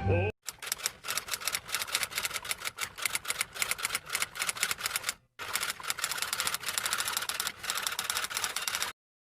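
Rapid typing: a long run of quick, irregular key clicks, with a short pause about five seconds in.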